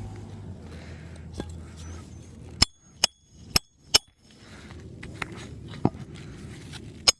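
Hammer driving a new roofing nail through an asphalt shingle beside the old nail hole: a series of sharp, ringing strikes, four in quick succession starting about two and a half seconds in, then two more after a short pause.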